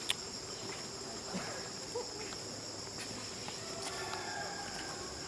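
Steady, high-pitched drone of an insect chorus, with one sharp click just after the start.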